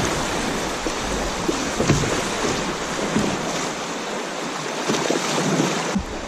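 Rushing, splashing water of a shallow river rapid around a kayak, with wind buffeting the microphone.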